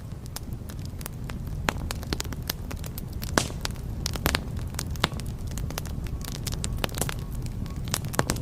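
Wood fire burning in a fireplace: a steady low rumble of flames with irregular sharp crackles and pops, a few louder pops about three and four seconds in.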